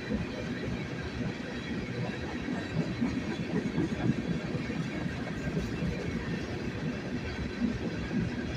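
A freight train rolling past, its wheels rumbling and clattering steadily over the rails.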